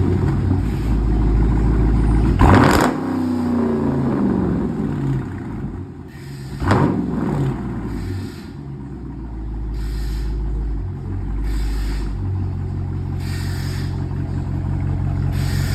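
Straight-piped Dodge Charger R/T's 5.7-litre Hemi V8, mufflers and resonators removed, revved sharply twice, its pitch falling back after each blip. It then settles into a steady idle.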